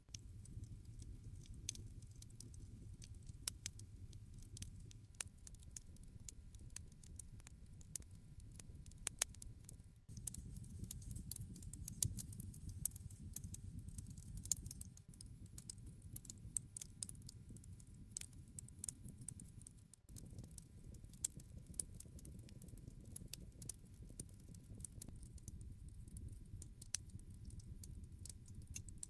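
Campfire crackling: frequent irregular sharp pops and snaps of burning wood over a low steady rumble of flame.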